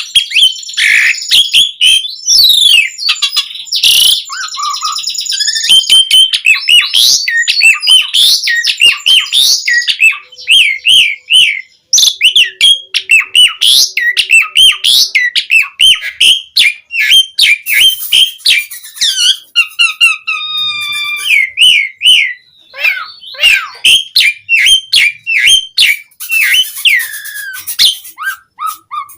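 Jalak suren (pied starling) singing loudly and without pause in a varied song of whistled glides, quick chattering phrases and sharp clicks and rattles, packed with mimicked phrases.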